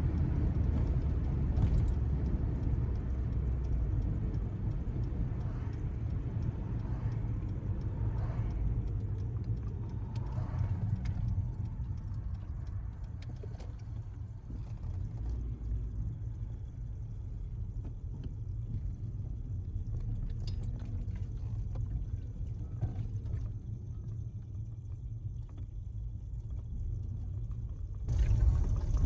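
Steady low rumble of a car driving on the road, with a change in the sound about a second before the end.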